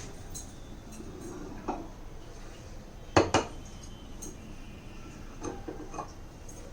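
Dishes being handled: two sharp clinks in quick succession a little past the middle, with a few fainter knocks around them.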